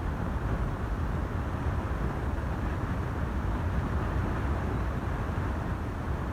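Steady rumbling rush of wind on the microphone, with road noise, from a camera riding along on a road bike.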